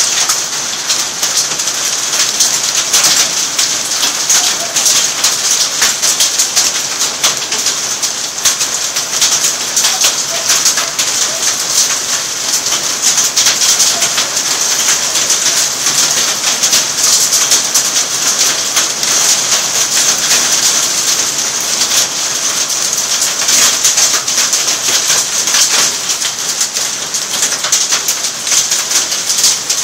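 Heavy thunderstorm rain falling steadily, with a dense crackle of drops striking nearby surfaces.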